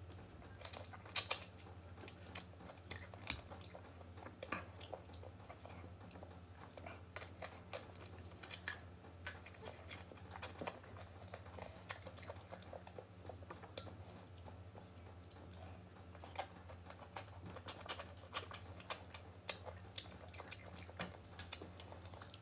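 Close-up chewing and biting of crisp raw green mango slices: irregular sharp crunches and wet mouth sounds, over a low steady hum.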